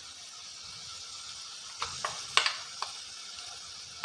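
Onions, green chillies and curry leaves sizzling in coconut oil in an uruli as the ground masala paste is added, with a few short spoon knocks against the pan in the middle.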